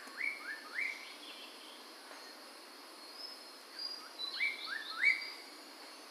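Poksay mantel laughingthrush calling quietly in two short bursts of quick upward-sweeping notes, the first just after a louder call fades, the second about three seconds in.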